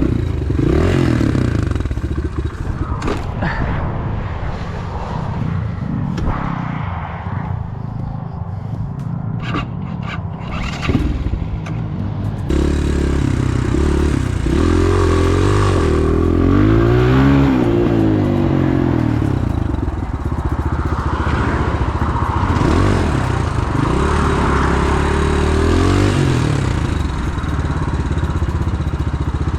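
Pit bike engine ridden on a rough forest trail, revving up and down with the throttle, with knocks and scrapes from the ground. The engine eases to a lower, rougher running for several seconds in the middle, then comes back strongly revving about halfway through.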